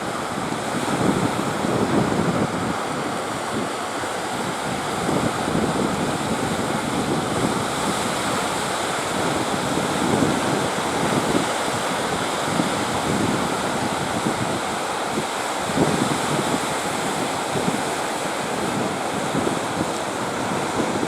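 Sea surf with strong wind buffeting the microphone in uneven gusts.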